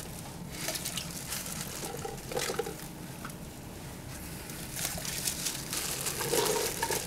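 Water pouring and splashing into a cooking pot, an uneven trickling and sloshing.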